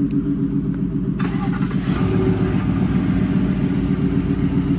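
GMC Sierra pickup's engine starting about a second in and settling into a quiet idle, over the steady hum of another engine already running.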